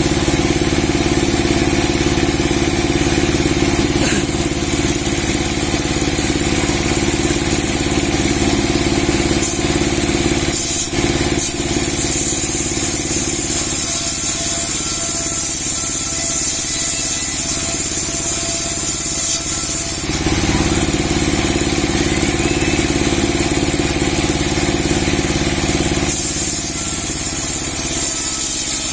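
Large 30-horsepower sawmill with a 60 cm steel blade running steadily while sawing a big log. The sound dips briefly about eleven seconds in and changes in tone around twenty seconds in.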